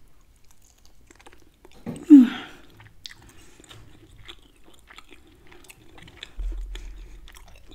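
Close-miked chewing of lamb chop meat bitten off the bone, with small wet mouth clicks throughout. About two seconds in there is a brief loud mouth sound that falls in pitch, and a low rumble near the end.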